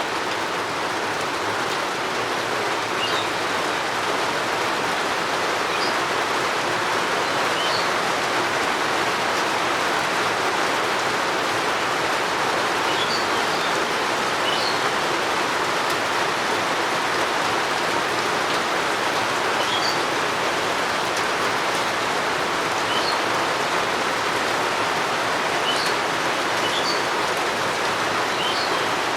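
Steady rain falling, an even hiss that does not let up, with brief bird chirps now and then.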